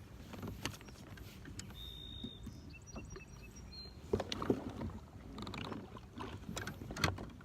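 Kayak on the water: water lapping and splashing, with scattered sharp knocks and clicks on the hull that come more often in the second half.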